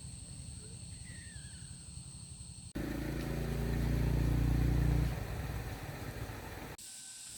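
A small engine running with a low, rapid pulse. About three seconds in, a louder engine takes over, grows louder for two seconds, eases off, and stops abruptly near the end. A steady high insect drone sounds before and after the loud part.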